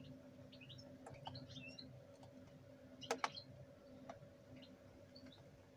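Faint bird chirps in the background over a steady low hum, with one sharp click about three seconds in.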